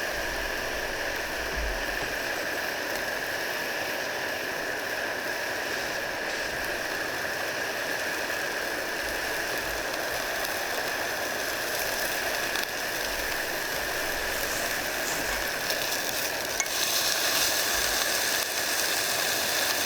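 Wagyu beef sizzling steadily as it cooks, the hiss growing a little louder near the end.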